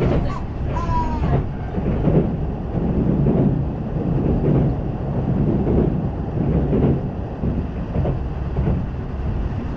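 Inside a Kintetsu electric train in motion: the steady rumble of the car running on the rails.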